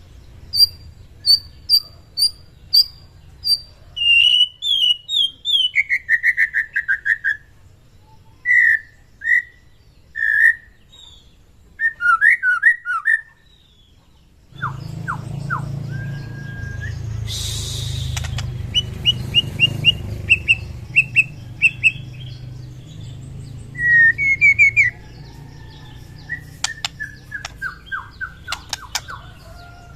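White-rumped shama (murai batu) singing: a varied run of clear whistled phrases, quick repeated notes and falling slurs. About halfway it breaks off and resumes over a low steady hum, with a brief harsh rasping note soon after.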